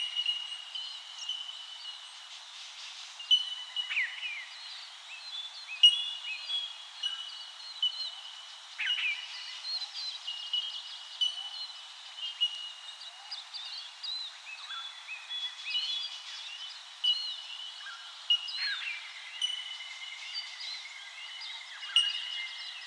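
Several birds calling over one another: short whistled chirps, held high notes and quick downward-sweeping calls, repeating and overlapping throughout.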